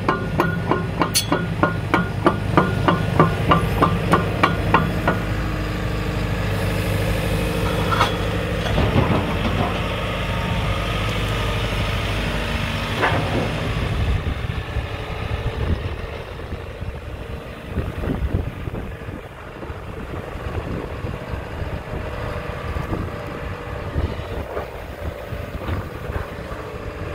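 JCB JZ141 tracked excavator's diesel engine running steadily, with a few isolated clunks. For the first five seconds a fast, even knocking, about three a second, runs over it.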